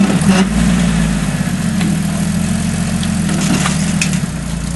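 Off-road vehicle's engine running steadily at low revs, with a few faint knocks about three and a half seconds in.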